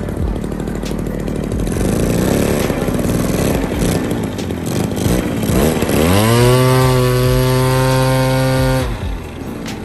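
Small two-stroke engine from a backpack pesticide sprayer, fitted to a homemade RC plane, running unevenly at low speed. About six seconds in it revs up to a high, steady pitch, holds there for about three seconds, then drops back.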